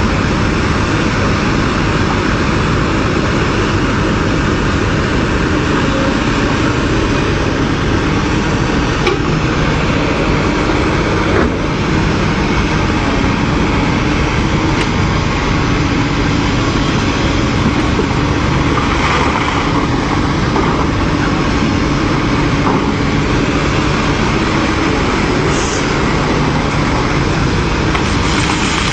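A vehicle's engine running steadily under a loud, even rush of noise.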